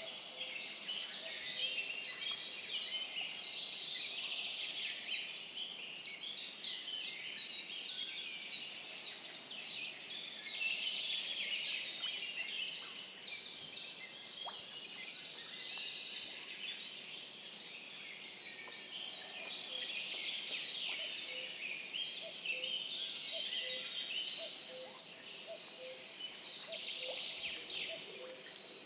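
Several songbirds singing in overlapping bursts of rapid, high phrases, swelling at the start, around the middle and again near the end. In the second half, a faint low note repeats about once a second under the song.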